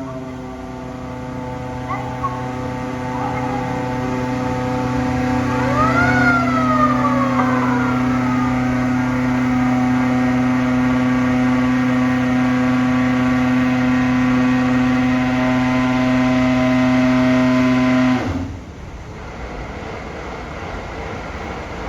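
Fire engine under inspection: a loud steady drone, with one short siren wail rising quickly and falling away about six seconds in. The drone stops abruptly near the end, leaving a quieter background.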